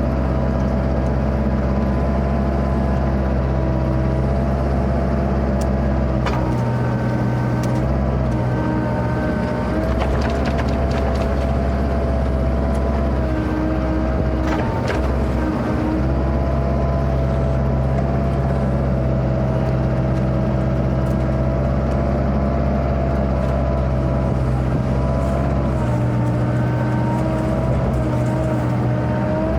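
Kubota KX121-3 mini excavator's diesel engine running steadily under load, with a hydraulic whine that steps up and down in pitch as the controls are worked. A few brief knocks come in along the way.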